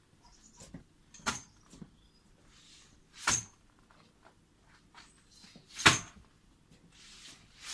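A heavy hand tool striking repeatedly while digging out laurel hedge roots: four sharp blows about two seconds apart, each with a brief metallic ring, the third the loudest.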